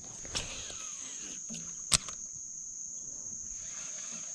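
Insects, likely crickets, trilling steadily with one unbroken high-pitched tone. About two seconds in there is a single sharp click, with a fainter one shortly after the start.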